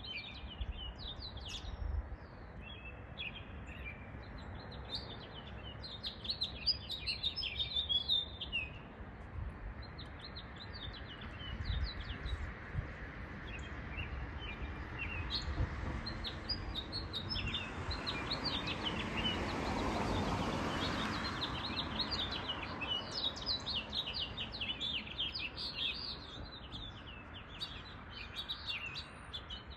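Small songbirds chirping and twittering in quick, high, overlapping notes, with a short lull around the middle. A broad rushing noise swells and fades about two-thirds of the way through.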